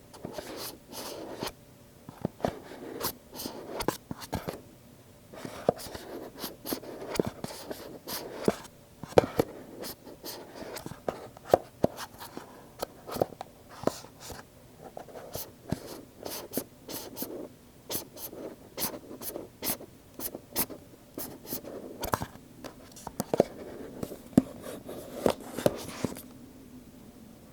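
Fingers handling stiff cardboard Apple product boxes for ASMR: many irregular sharp taps and clicks, several a second, with scratching and rubbing on the box surfaces between them.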